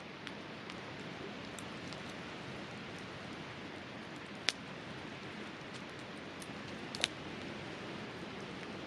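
Wood campfire burning steadily with a soft continuous hiss and scattered small crackles; two louder sharp pops come midway and again about two and a half seconds later.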